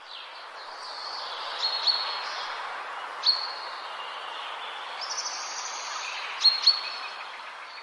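Small birds chirping outdoors: short, sharp, quickly falling notes now and then over a steady background hiss, with two loud chirps close together near the end.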